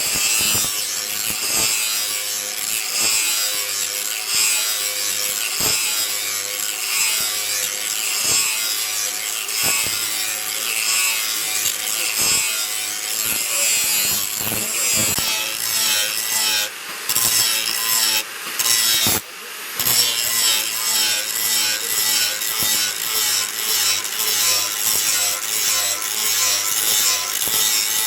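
Hand filing of a steel sickle blade forged from rebar: a rasping, back-and-forth stroke at about one and a half strokes a second, with a few short breaks partway through.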